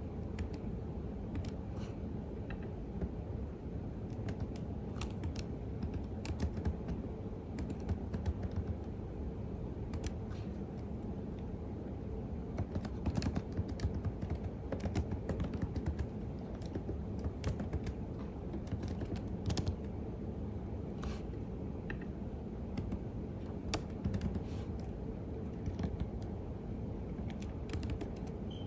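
Typing on a computer keyboard: irregular keystroke clicks at a calm pace, over a steady low hum.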